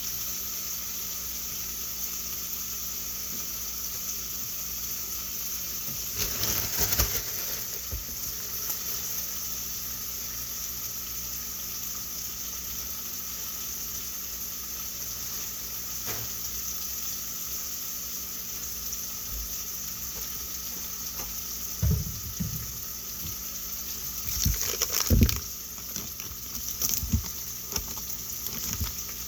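Food sizzling steadily in a frying pan, with a few clatters and knocks of utensils or cookware about six seconds in and again near the end.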